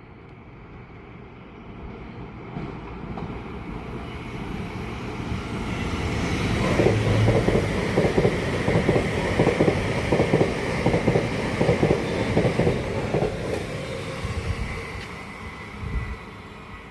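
A train passing on the main line: it builds up, then goes by with a rapid run of wheel clatter and rumble for several seconds, and fades as it moves away.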